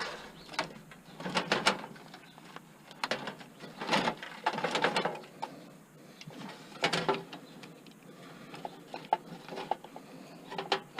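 Scattered clicks, knocks and rattles of a desktop computer being taken apart by hand, its metal case and parts clattering, with a few small ticks near the end.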